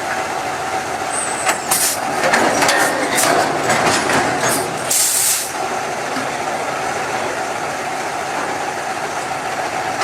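Heavy dump truck engine running steadily. A run of noisy bursts in the middle ends in a short, sharp hiss of air about five seconds in, typical of an air brake.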